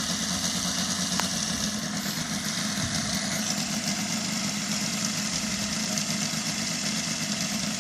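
Five-cylinder radial engine of a model airplane running steadily as the plane taxis, with a short click about a second in.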